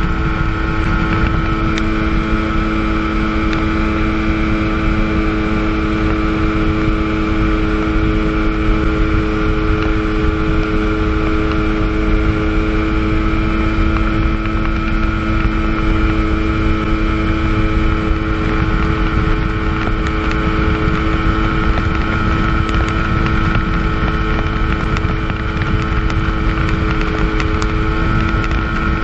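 1997 Sea-Doo GTS personal watercraft's 720 two-stroke engine running flat out at steady revs, cruising at about 40–45 mph on flat water, over a heavy low rush of wind and water.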